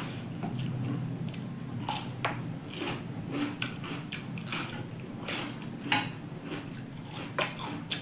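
Close-up eating sounds: crisp bites and chewing of raw cucumber and wet mouth sounds of chewing rice and chicken, in short irregular crunches.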